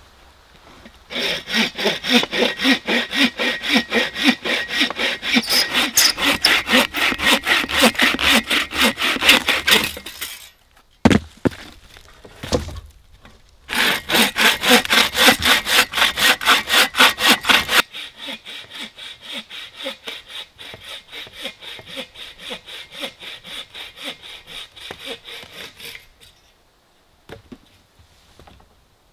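Folding bow saw cutting through a log in quick, steady back-and-forth strokes. Two loud runs of sawing are broken by a short pause with a few knocks, then the sawing goes on more quietly before stopping near the end.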